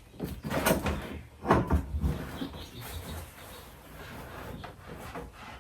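Handling noise from the parts of a Halloween animatronic prop being fitted together: a few knocks and clatters in the first two seconds, then quieter rubbing and rustling.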